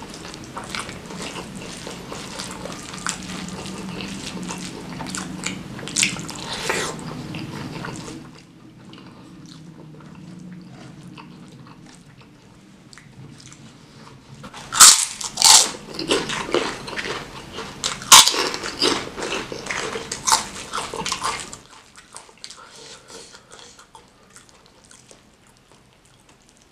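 Close-miked eating sounds of a person chewing a mouthful of nasi Padang eaten by hand: wet chewing, lip smacks and mouth clicks. The loudest sharp smacks come in a cluster from about 15 to 21 seconds in, and the sounds grow soft near the end.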